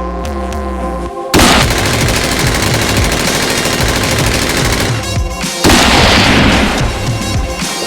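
Two long bursts of rapid automatic gunfire-like shooting over background music: the first starts about a second in and lasts several seconds, the second starts about six seconds in.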